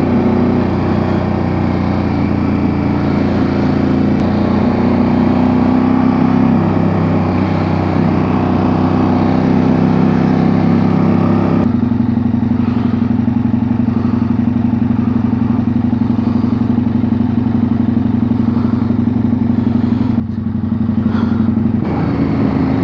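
KTM adventure motorcycle's engine running steadily under way, with an abrupt change in the engine note about halfway through.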